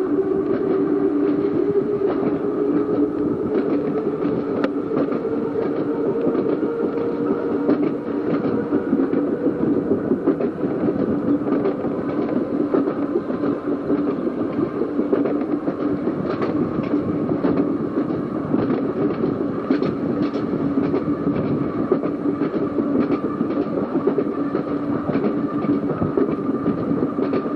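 Seaton Tramway narrow-gauge electric tram running along the line: a steady motor whine that rises a little at first and then holds, with irregular clicks of the wheels over the rail joints.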